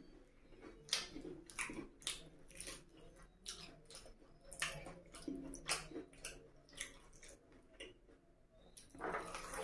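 Close-miked chewing of puri and egg curry, with irregular wet mouth clicks and smacks. Wet squelches come from fingers working the curry-soaked puri.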